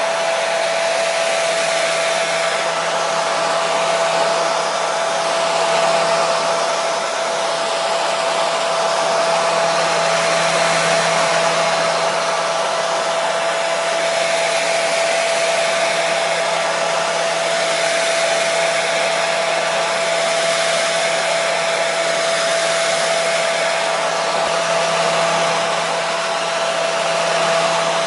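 Hair dryer running steadily: an even rushing of air with a constant motor hum under it.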